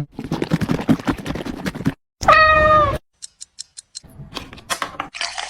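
A cat meows once, about two seconds in, a single drawn-out call between stretches of clicking and rustling.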